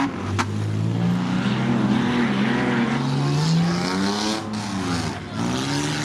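Several banger racing cars' engines revving up and easing off over one another, their pitch rising and falling. A single sharp click comes about half a second in.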